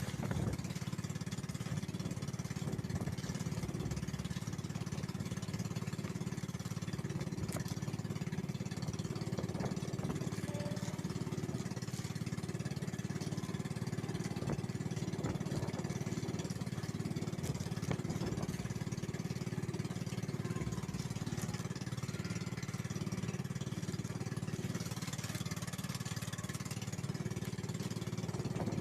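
A small boat's engine running steadily: a low, even drone that holds the same pitch and level throughout.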